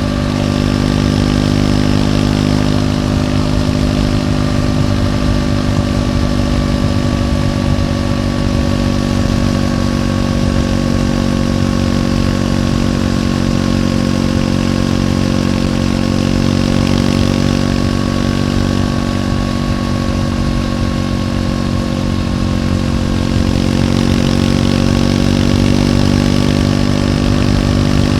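Stock exhaust of a Triumph Scrambler 400X's single-cylinder engine running at a steady, even pace. The engine speed eases down slightly through the middle and picks up again near the end.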